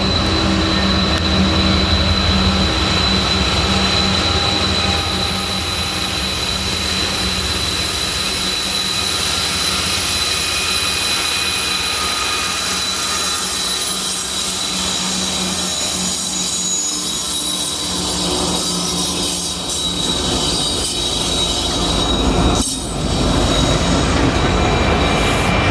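Norfolk Southern freight train rolling past, its wheels squealing in one steady high tone over the rumble of the cars.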